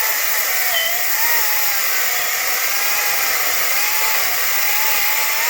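Echo DCS-2500T battery-powered chainsaw running at speed, its electric motor and chain whining with a pitch that wavers up and down as the saw cuts into a tree.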